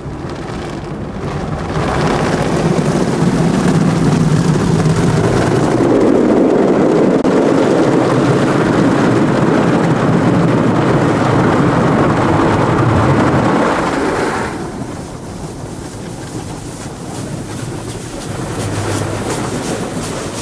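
Automatic car wash working over the car, heard from inside it: a loud, steady rush of water spray and machinery that builds over the first two seconds and drops off sharply about fourteen seconds in, leaving a quieter run with a fast, even patter.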